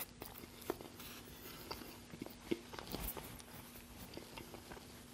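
A person chewing a mouthful of burger: faint, close-up chewing with scattered soft mouth clicks.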